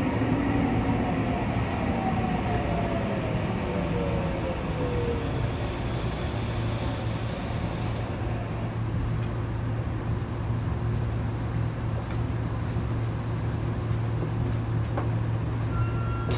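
Saitama Rapid Railway 2000 series electric train running between stations, heard from on board: steady running noise and a low hum. During the first five seconds a few faint motor tones fall in pitch.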